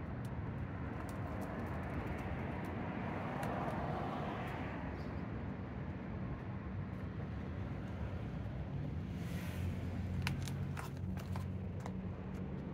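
Outdoor traffic background: a steady low hum, with a passing vehicle swelling up and fading about four seconds in. A run of light clicks comes near the end.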